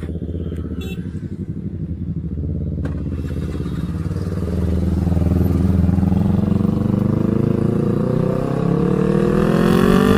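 TVS Apache RR310's single-cylinder engine under way, running steadily at first and then accelerating, its pitch rising from about four seconds in. Wind rush grows near the end.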